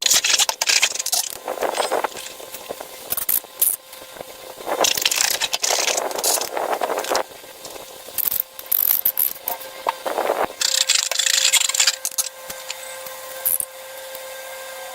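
Slime and balloons being handled: irregular bursts of sticky crackling and scraping, with scattered sharp clicks.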